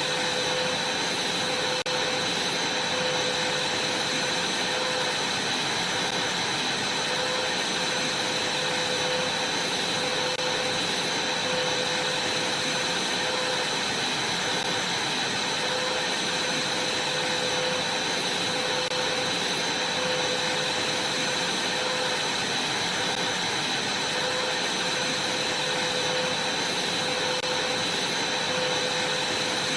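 Vacuum cleaner running steadily, a constant rushing noise with a high-pitched motor whine.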